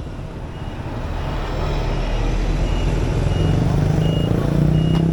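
Motorbike engine running and getting louder as it picks up speed, with short high beeps repeating about every two-thirds of a second.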